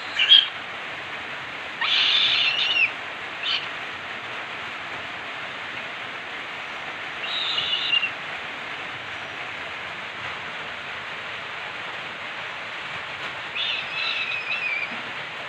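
Harsh, rasping bird calls in five short bursts, the longest lasting about a second, over a steady hiss.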